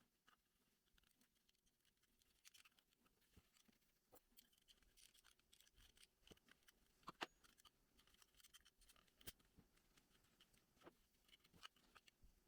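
Near silence, with faint scattered clicks and light scratching, one click a little sharper about seven seconds in.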